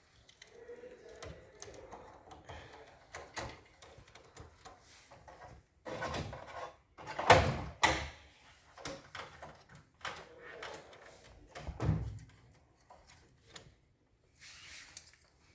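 Hands working on copier drive-unit parts: irregular plastic and metal clicks, knocks and rustles as a clutch is clipped in and its wiring handled, with louder clunks about seven seconds in and again about twelve seconds in.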